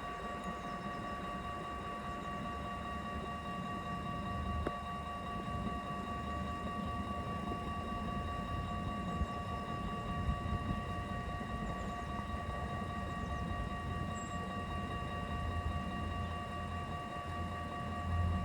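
Dutch automatic level-crossing warning bells ringing steadily, with a low rumble underneath.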